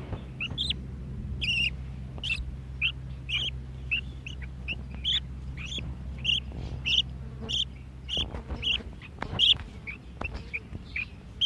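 Young budgerigar chicks chirping: short, repeated high calls, about two a second.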